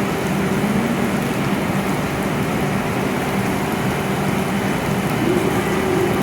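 W7 series Shinkansen train at the station platform: a steady electrical hum with a constant rushing, whirring noise, the hum's pitch bending slightly once or twice.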